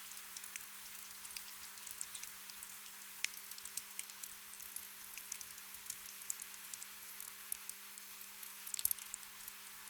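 Steady gentle rain: a soft hiss with many scattered, irregular drips and drops ticking on leaves and surfaces, with a small flurry of louder drops near the end. A faint steady low hum runs underneath.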